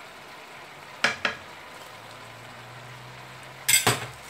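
Sliced tomatoes, peppers and onions frying in a pot with a low, steady sizzle. A spoon knocks against the pot twice about a second in, then several times in a quick cluster near the end.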